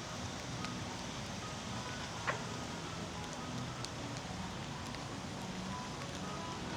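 Steady rain falling, with scattered drips ticking and one sharper tap about two seconds in, over faint music playing underneath.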